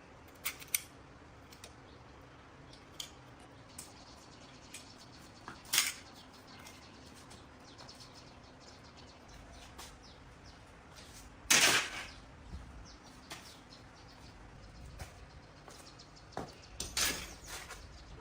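Sporadic clicks and metallic clinks of hand tools being handled on machine parts, with one louder, longer clatter a little past halfway and a few more clinks near the end.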